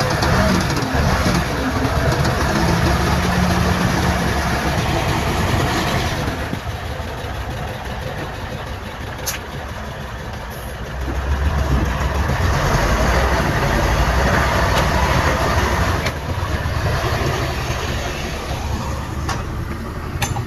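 Heavy diesel engines of earthmoving machinery running, easing off for a few seconds in the middle and then picking up again, with a couple of sharp knocks.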